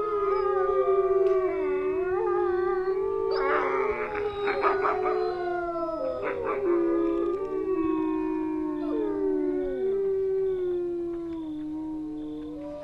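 A pack of wolves howling together: several long, overlapping howls that slide slowly in pitch, with a few rougher, noisier calls mixed in around the middle.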